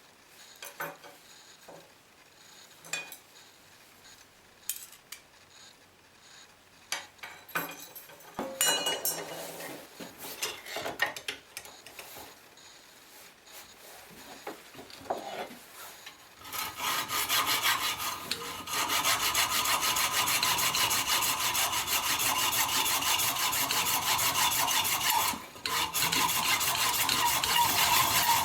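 A few scattered clicks and knocks of tools being handled, then about sixteen seconds in a steady, continuous rasping scrape of a tool working the piece. It breaks off briefly near the end and resumes.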